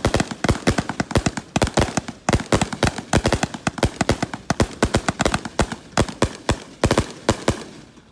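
A multi-shot firework salute cake firing a rapid volley of loud bangs, several a second. The shots thin out and stop near the end.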